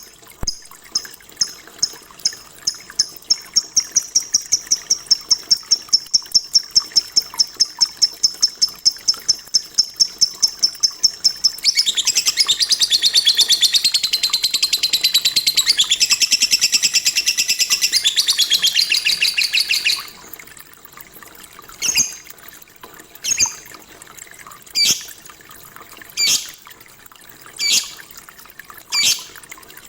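Lovebird calling: a fast run of repeated sharp high chirps that quickens, then about twelve seconds in a dense unbroken chatter for about eight seconds, then single sharp calls roughly every second and a half.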